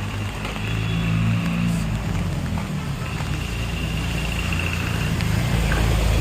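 Street traffic: motor vehicle engines running and passing close by, with a low rumble growing louder near the end.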